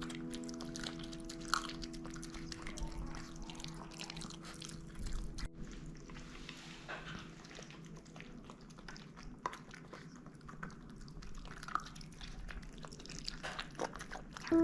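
A small dog eating, with irregular chewing and crunching clicks. Held background-music notes fade out over the first several seconds.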